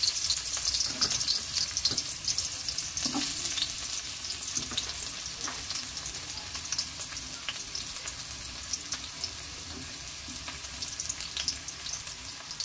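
Ginger, garlic and onion sautéing in oil in a wok: a steady sizzle with dense crackling pops and a few light knocks in the first few seconds, easing slightly later on.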